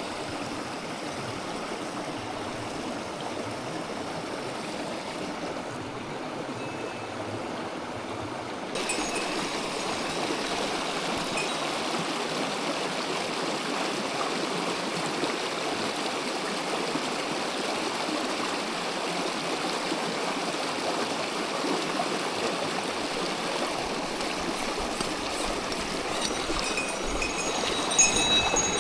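Mountain stream water rushing steadily, becoming louder and brighter about nine seconds in, with a few small knocks near the end.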